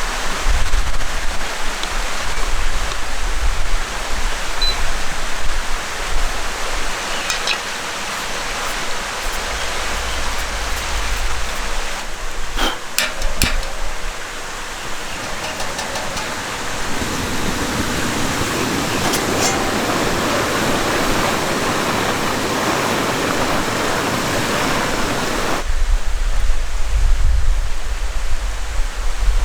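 Steady rush of a valley stream's flowing water. A few sharp clicks come near the middle, and the water's tone changes abruptly twice, with a low rumble at the start and again near the end.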